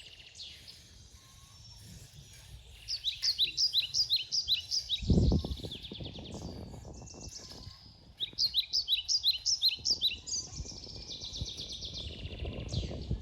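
Songbird singing: two runs of quick, evenly repeated high chirps, with trills between them. A dull low thump comes about five seconds in.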